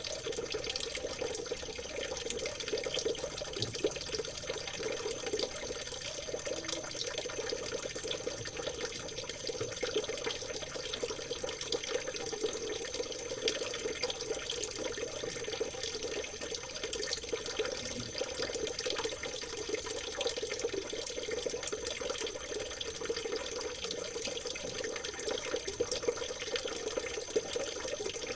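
Small stream of water trickling and splashing steadily, without a break.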